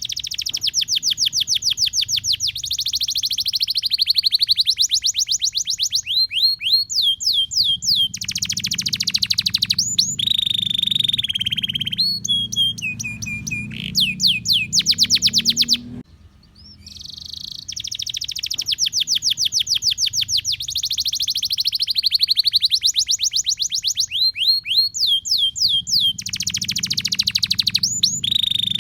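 Domestic canary singing a long, loud song of rapid trills and quick rolling note series. The same song phrase plays twice, restarting after a brief dip about halfway through, as in a looped recording.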